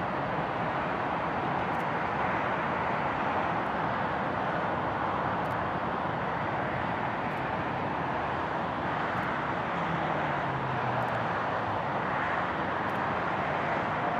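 Steady noise of jet aircraft engines at an airport, holding an even level throughout.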